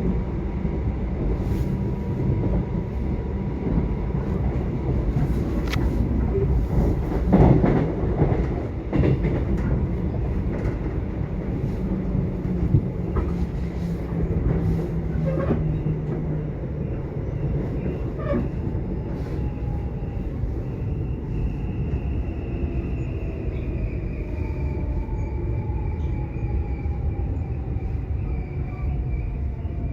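Subway train running: a steady low rumble with occasional clacks from the wheels. In the second half a thin whine falls slowly in pitch.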